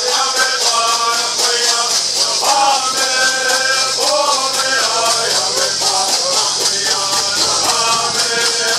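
Southern California bird songs sung in unison by a group of singers, over a steady, fast beat of shaken gourd rattles, about five strokes a second.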